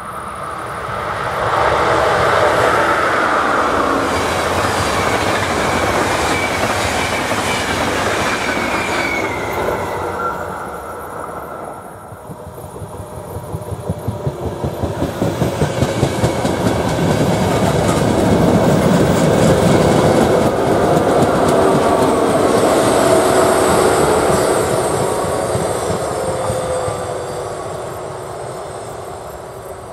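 Two trains pass one after the other on an electrified main line. The first rumbles past loudly in the first ten seconds. After a dip, an electric-locomotive-hauled passenger train comes in with a quick run of wheel clicks over the rail joints, passes loudly with a steady whine, and fades near the end.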